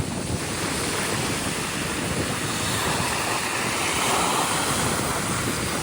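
Waves washing onto a beach with wind on the microphone, a steady rush that swells a little in the second half.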